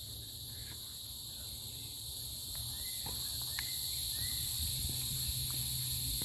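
Steady high-pitched chorus of insects droning without a break, with a few faint short chirps over it.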